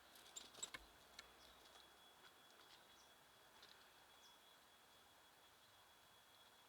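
Faint small songbirds at a feeder: a quick cluster of short chirps and clicks in the first second, then a few sparse, scattered chips, over a faint, steady high-pitched tone.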